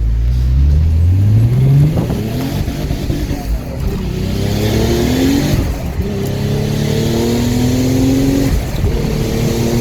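Twin-turbocharged Infiniti G35 coupe's 3.5-litre V6 with a free-flowing aftermarket exhaust accelerating hard, the revs climbing through the gears and the pitch dropping sharply at each upshift, several times.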